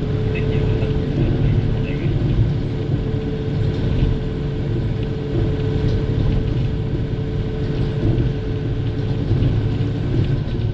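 City bus (type PKG-AA274KAN) running between stops, heard inside the cabin: a steady diesel engine drone and road rumble, with a steady whine that fades out near the end.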